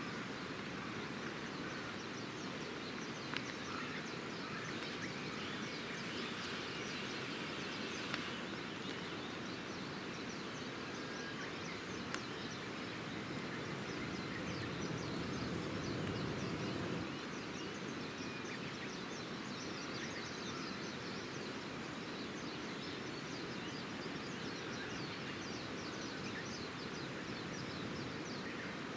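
Wood campfire burning with a steady run of small crackles and a few sharper pops, over a steady outdoor background noise.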